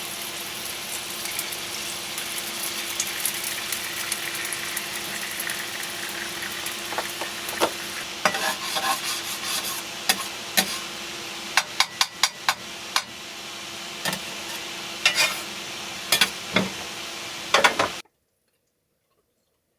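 Food sizzling in a frying pan, a steady hiss, with utensil clicks and scrapes against the pan from about seven seconds in. The sound cuts off abruptly near the end.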